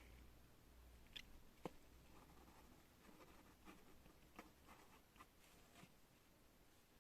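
Pen writing on paper: faint, uneven scratching strokes and small ticks of the nib, with one sharper tick a little under two seconds in.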